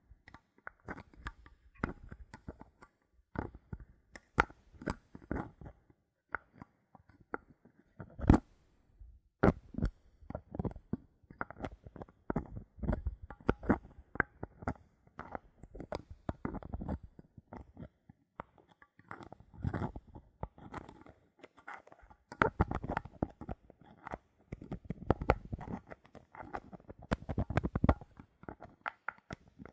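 Bottle caps handled close to the microphone: a dense, irregular run of taps, clicks and twisting rustles, with one sharper click about eight seconds in.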